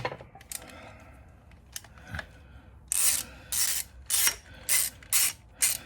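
Hand tools working on an engine: a few light clicks and knocks, then from about halfway a ratchet wrench worked in short rasping strokes, about two a second.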